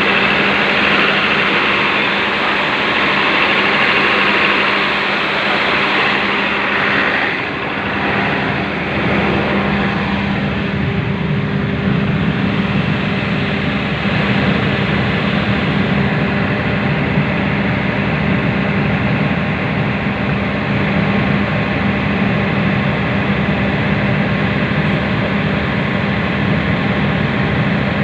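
Cummins KTAA19 19-litre six-cylinder turbocharged diesel engine running steadily on a test run. About seven seconds in its sound dips briefly, and after that the low hum is stronger and the hiss higher up is weaker.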